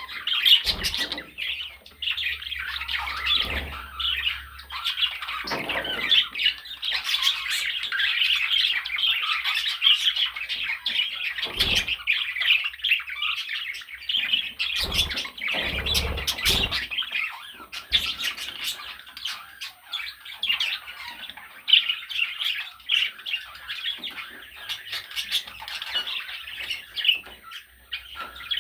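Budgerigar chattering and warbling non-stop in a dense, fast twitter, with a few dull knocks scattered through it, clustered around the middle.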